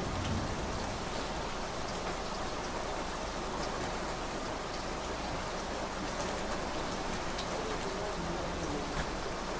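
Steady rain falling, an even dense hiss with scattered sharper drop hits.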